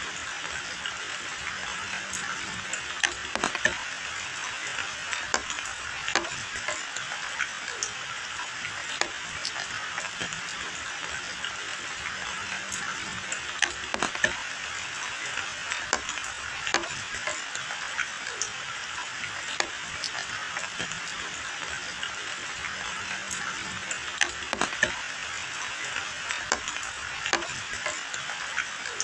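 Steady rain falling on leaves and a wet paved lane, an even hiss with scattered sharper drop hits.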